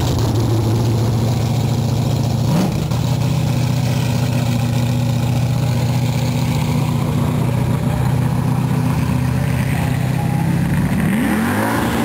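An engine idling steadily with an even low hum, its pitch rising near the end as it is revved.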